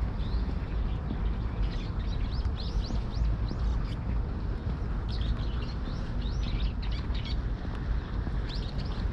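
Small birds chirping in quick clusters of short, high, falling notes, again and again, over a steady low rumble of city noise.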